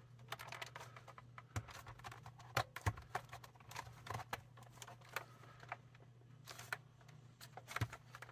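Plastic case halves of a Sony ICF-2001 radio being handled and pressed back together: irregular clicks, taps and light knocks. A steady low hum runs underneath.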